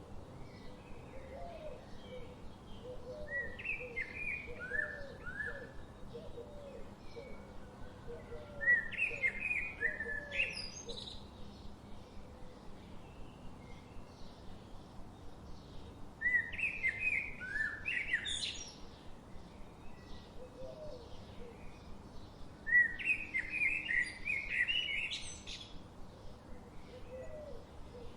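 Songbirds singing in a forest: one bird delivers a loud, quick phrase of sweeping notes four times, about every six to seven seconds, over a steady soft background hiss, with softer low repeated notes in the first third.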